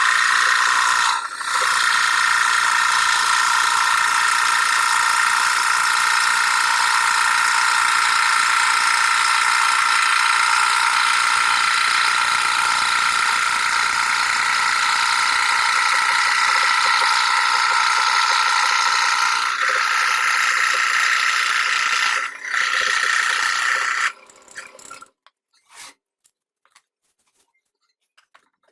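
Electric scroll saw running steadily, its reciprocating blade cutting plywood, with a few brief dips in the sound. The saw stops about 24 seconds in, leaving a few faint clicks.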